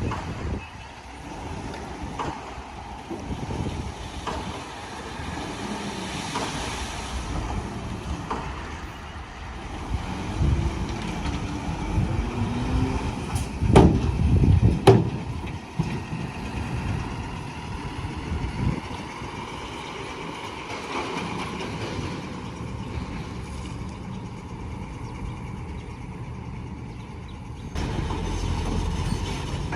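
Heavy diesel construction machinery running at work, its engines rumbling and changing pitch. Two sharp metallic clanks come about a second and a half apart near the middle.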